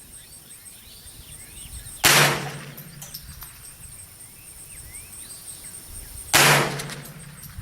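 Two shots from a Smith & Wesson M&P 15-22 .22 LR semi-automatic rifle, about four seconds apart, each a sharp crack with a short echo trailing off.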